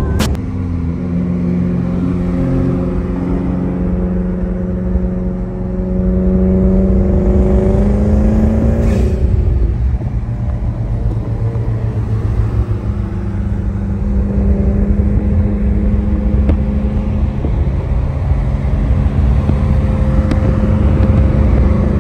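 Car engines: an engine note climbing slowly and steadily in pitch as a car accelerates, breaking off about nine seconds in. After that, engines run at a steady low speed as cars roll slowly past.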